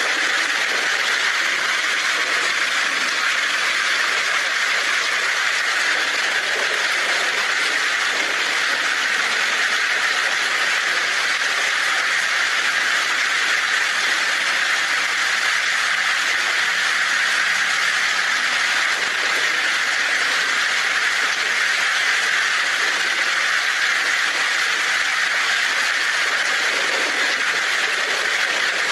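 Heavy rain falling steadily on a tin roof, an even hiss without breaks.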